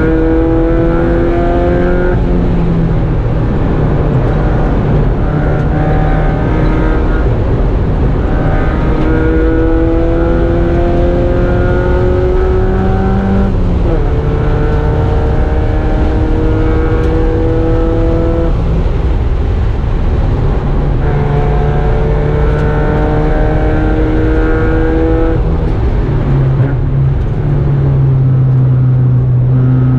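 Mazda Miata race car's inline-four engine heard from inside the stripped, caged cockpit under load at track speed. The note climbs slowly over several seconds at a time and breaks about five times, dropping and picking up again lower, over a steady rush of wind and road noise.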